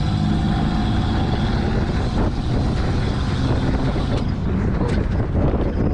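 Truck driving over rough ground: a steady, loud engine and drivetrain rumble with a few faint knocks as it jolts along.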